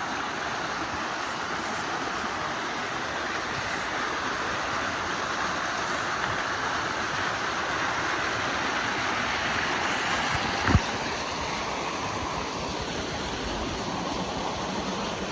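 Waterfall rushing steadily, with one brief thump about ten and a half seconds in.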